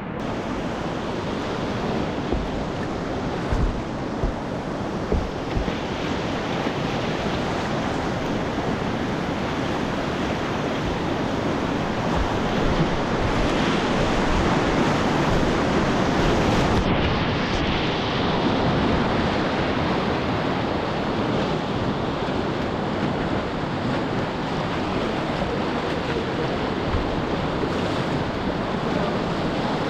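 Whitewater rapids rushing steadily and close by, with a few dull knocks in the first few seconds.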